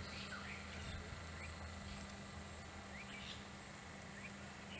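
Birds chirping in short scattered calls, a few quick rising and falling notes over a couple of seconds, over a steady low hum and outdoor background hiss.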